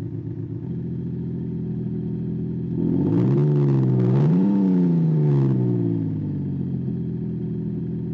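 Synthetic V8 exhaust note from an active exhaust sound generator on a diesel Mercedes C-Class. It holds steady, then rises in pitch about three seconds in, dips briefly, rises again and falls back to a steady note, following the engine as the car accelerates and eases off.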